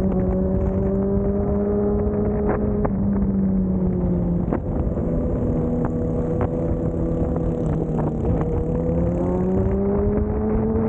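Vehicle engine heard onboard while driving, holding a steady pitch that sags a little, steps down about four and a half seconds in, then rises as it accelerates near the end. Road and wind rumble run underneath, with a few sharp ticks.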